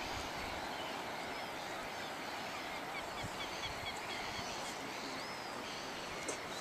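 Birds chirping in short, high calls, scattered throughout, with a quick run of about half a dozen chirps a few seconds in, over a steady background hiss.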